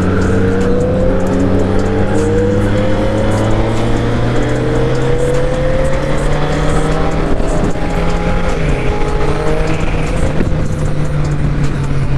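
Triumph Street Triple R's three-cylinder engine pulling under way, its note rising slowly as the bike accelerates, then dropping once about nine seconds in, with wind rushing past.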